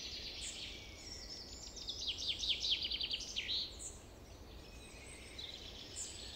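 Birds chirping: high, thin calls, with a quick run of falling notes, about eight a second, between two and three and a half seconds in, the loudest part. A faint low hum runs underneath.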